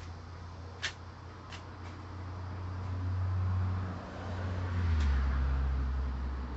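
A low, steady mechanical hum, like a vehicle running, that swells twice and drops in pitch about five seconds in, with a single sharp click about a second in.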